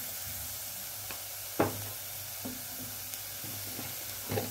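Chopped onions frying in hot sunflower oil in a pan, a steady sizzle as chilli powder is added, with a sharp click about one and a half seconds in and a short knock near the end.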